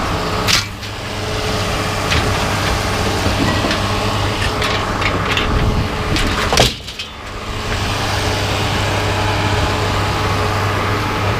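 Vehicle engine idling steadily under two loud bangs of scrap being unloaded, one about half a second in and one just past halfway.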